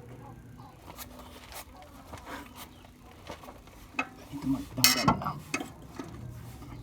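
Metal hand tools clinking and knocking against metal parts in a series of separate clicks, with a louder burst of clatter about four to five seconds in.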